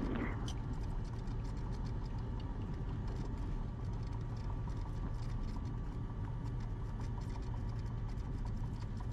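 Steady drone of a Cessna 172RG's engine and propeller heard in the cockpit through the headset intercom, with many faint irregular clicks over it.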